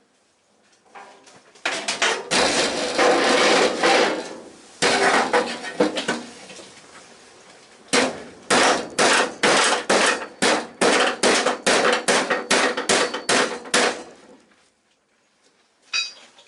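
A hammer striking the steel bodywork of a classic Mini, knocking a panel into place: a rapid flurry of blows for about five seconds, then, after a short pause, about fifteen evenly spaced blows at two to three a second.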